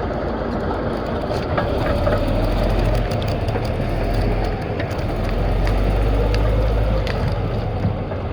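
Caterpillar D8 crawler dozer's diesel engine running under load, its low drone swelling about two seconds in and again a few seconds later, with scattered metallic clanks.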